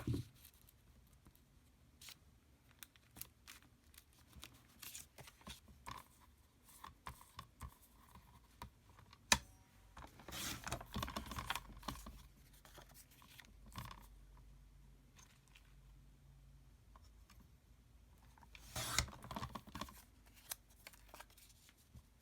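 Paper and card being handled and cut by hand: scattered light clicks and taps, one sharp click about nine seconds in, and two spells of louder rustling and snipping, the first about ten seconds in and the second near the end.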